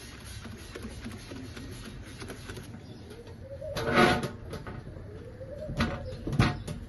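A pigeon cooing: low, rising-and-falling calls, the loudest about four seconds in and two more near the end, over a steady background hiss.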